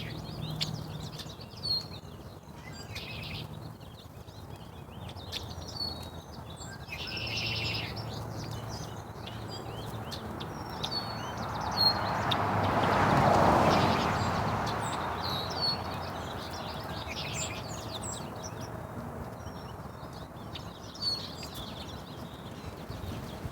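Small birds chirping, with many short high calls scattered throughout. Midway a broad rushing noise swells up and fades away again.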